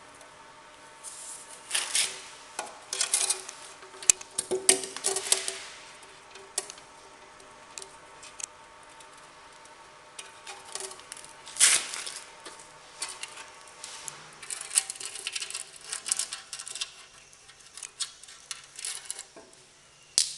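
Metal hand tools and engine parts clinking and clattering at irregular intervals as an engine is worked on, with a few sharper knocks, the loudest about twelve seconds in.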